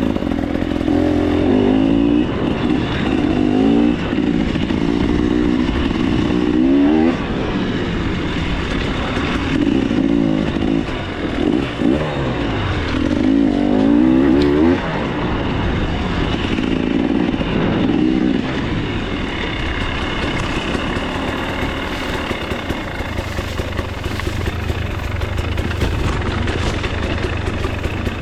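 2024 KTM 300 XC-W two-stroke dirt bike engine revving up and falling back again and again as the throttle is worked. For roughly the last ten seconds it settles into a lower, steadier running note.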